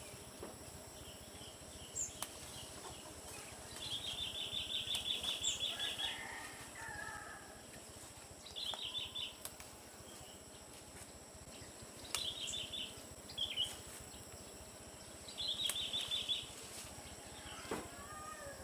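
A bird calling in bouts of rapid, high, evenly pulsed trills, four times, the first and longest lasting about two seconds. Faint snaps of cassava leaves being picked are heard here and there.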